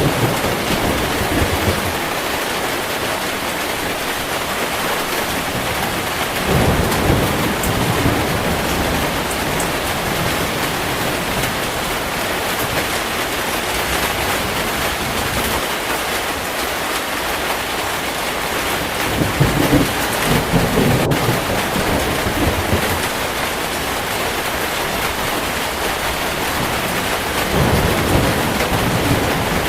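Heavy rain falling steadily, with rolls of thunder rumbling low three times, about a quarter of the way in, two-thirds of the way in and near the end.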